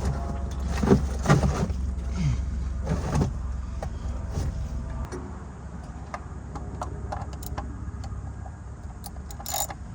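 Scattered metallic clicks and clinks of tools being handled under a vehicle, over a steady low rumble that eases about halfway through.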